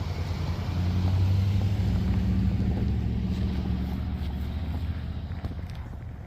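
Snowplow truck's engine running with a steady low drone.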